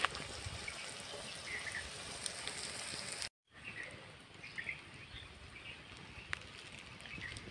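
Chopped onion and garlic frying in oil in an iron kadai over an open fire: a soft, steady sizzle with scattered small crackles. Birds chirp faintly, and the sound breaks off briefly about three seconds in.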